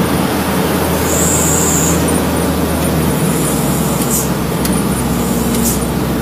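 Truck engine running steadily under load with road and tyre noise, and a short high hiss about a second in.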